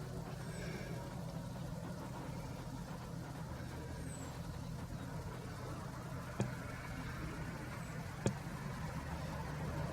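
Steady low rumble of a vehicle engine or distant traffic. A few faint, short, high bird chirps come through over it, and two sharp clicks sound about two seconds apart in the second half.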